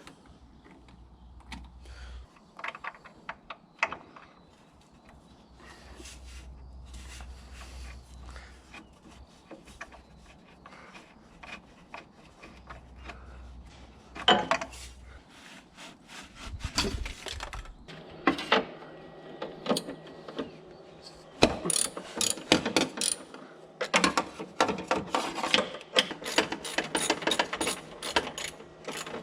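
Hand ratchet wrench clicking in quick runs as bolts are worked, with scattered knocks of tools and metal parts being handled before the ratcheting starts.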